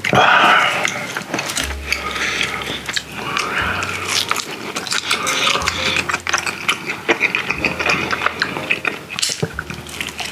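Close-miked chewing of grilled mackerel: a dense, continuous run of wet mouth clicks and lip smacks, loudest in the first second.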